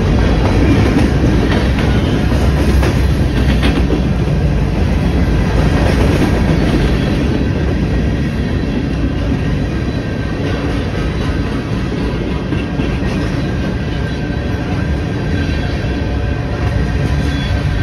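Freight train of covered hoppers and tank cars rolling past at close range: a steady rumble with the clatter of steel wheels over the rails, easing a little about halfway through.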